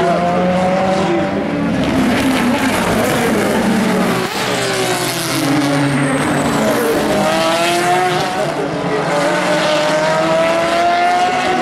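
Endurance race cars passing at speed one after another, their engine notes rising and falling in pitch as each goes by.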